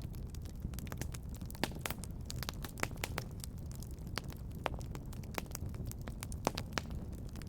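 Wood fire crackling in a fireplace: a steady low rumble of burning with frequent irregular pops and snaps, a few of them louder.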